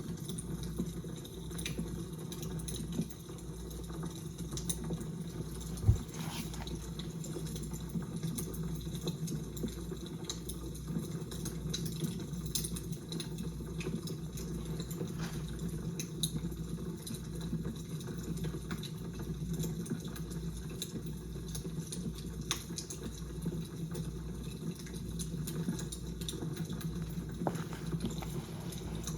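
Fire crackling: irregular small pops and snaps over a low steady rumble, with one sharper, louder snap about six seconds in.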